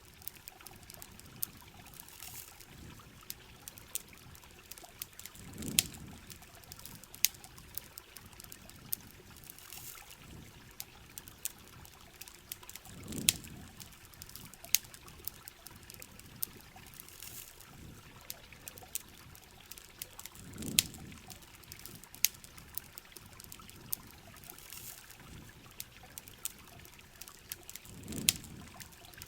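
Heavy rain falling with a steady hiss, with sharp campfire crackles and pops scattered throughout. A low swell rises and fades about every seven and a half seconds, five times.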